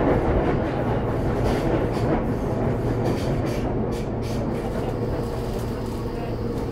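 Toei 6300 series electric train, a Mitsubishi GTO-VVVF car, running at speed as heard inside the passenger car: a steady rumble of wheels on rail with a steady tone over it, and a few quick clicks a couple of seconds in.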